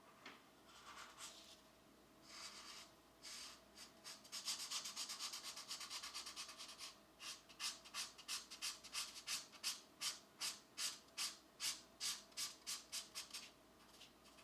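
Pencil coloring on a coloring-book page: a few short strokes, then a stretch of fast continuous scratchy shading, then steady back-and-forth strokes at about three a second that stop near the end.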